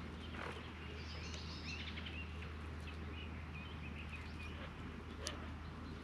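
Faint bird calls, short wavering chirps and whistles, over a steady low hum of outdoor ambience, with one sharp click a little after five seconds in.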